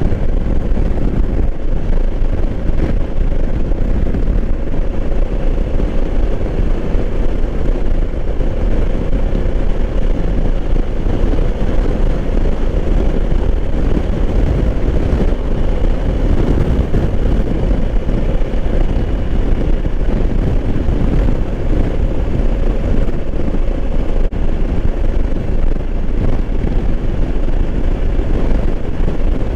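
2020 Honda Africa Twin's parallel-twin engine running steadily at cruising speed under a constant rush of riding wind, with a faint unchanging engine hum.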